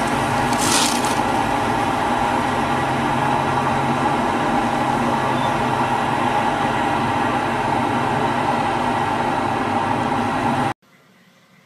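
Steady mechanical hum of a running machine, with a brief rustle about a second in; it cuts off suddenly near the end.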